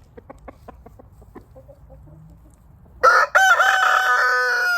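A few soft, short clucks, then a rooster crows loudly close by from about three seconds in: one long, steady-pitched crow.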